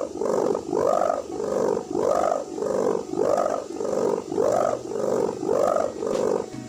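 Sendaren kite hummer with a plastic packing-strap reed, humming in a pulsing drone: about ten swells, roughly one and a half a second, each rising and falling in pitch.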